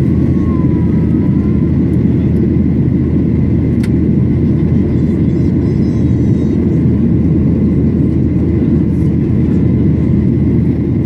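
Steady cabin noise inside a Boeing 737-800 with its engines running: a dense, even low rumble of engines and airflow with a faint steady whine above it.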